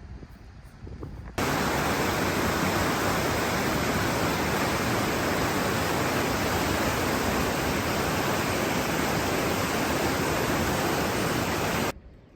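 Loud, perfectly steady hiss like static, switching on suddenly about a second and a half in and cutting off just as suddenly near the end, after faint outdoor ambience.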